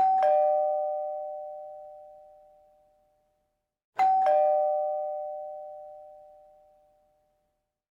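Two-tone ding-dong chime, a higher note then a lower one a moment later, each ringing out and fading over about three seconds. The ding-dong sounds twice, about four seconds apart.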